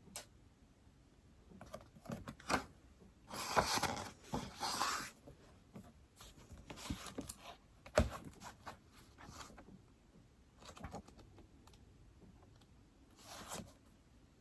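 Typing and tapping on an iPad: irregular soft keystroke taps with a few longer scratchy strokes, busiest between about three and five seconds in, and one sharper tap about eight seconds in.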